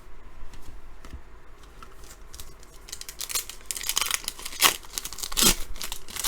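Trading card pack wrapper being torn open and crinkled in the hands, quiet at first, then a run of louder crackling tears in the second half.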